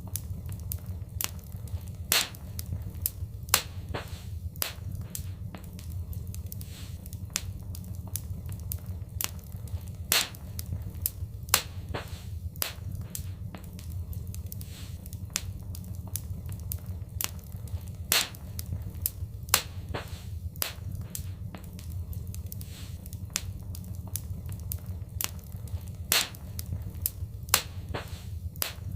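Fireplace fire crackling, with irregular sharp pops, a handful noticeably louder than the rest, over a steady low rumble.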